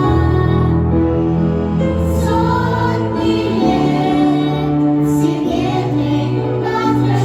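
A song sung over instrumental accompaniment, with long held sung notes above a sustained bass line.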